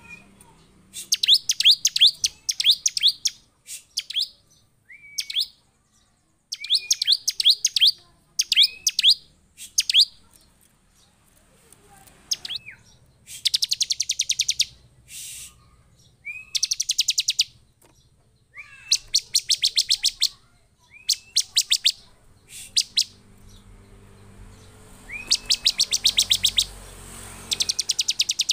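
Bar-winged prinia (ciblek) calling in an agitated state: repeated bursts of rapid, high-pitched chattering trills, each about a second long and often opening with a short rising note, with brief pauses between them. It is the kind of excited song used as a lure to set other ciblek calling.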